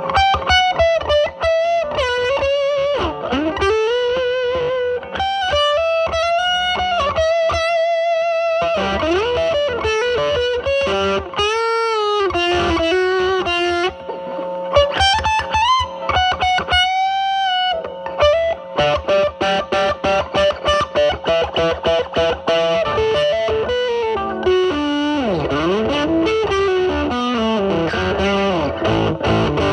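Electric guitar played through a silicon Mosrite Fuzzrite clone fuzz pedal at fuzz 5, a Telecaster into the drive channel of a Marshall Valvestate amp: improvised single-note lead lines with wide vibrato on held notes, a fast run of picked notes in the second half, and a slide down and back up near the end.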